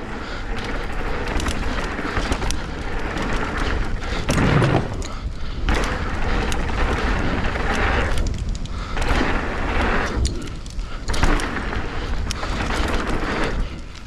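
Mountain bike riding down a rough downhill trail: tyres on dirt and rock, with frequent knocks and thumps from bumps and landings over a steady low rumble.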